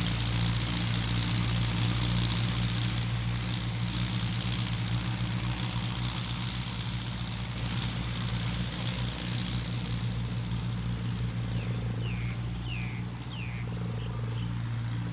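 Farm tractor's diesel engine running steadily, with a few short high falling chirps near the end.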